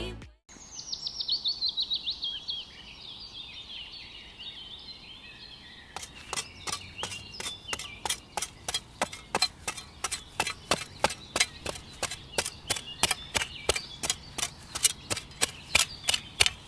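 Bird song: a run of quick high chirps stepping down in pitch for about five seconds, followed by a steady series of sharp taps, about three a second.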